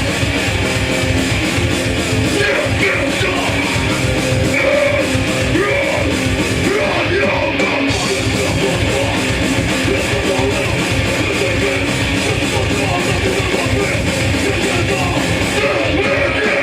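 Hardcore punk band playing live and loud: distorted electric guitars, bass and drums in a dense, unbroken wall of sound.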